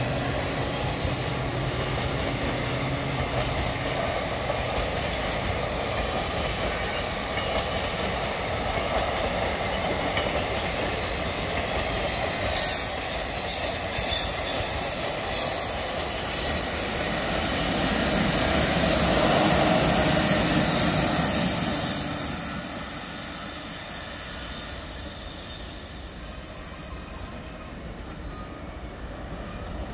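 Passenger coaches of a long express train rolling past on jointed track, with high wheel squeal and clatter about halfway through. The sound is loudest a little past the middle, then fades as the end of the train draws away.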